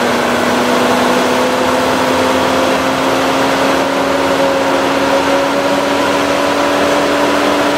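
Car running with the air conditioning on: the engine and the condenser's cooling fan make a steady hum over a rush of air, the hum's pitch creeping up slightly.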